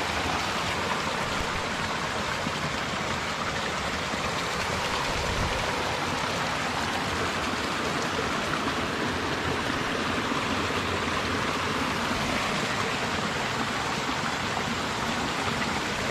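Steady rush of running water, spring-fed fresh water flowing through and into trout ponds, with no change in level throughout.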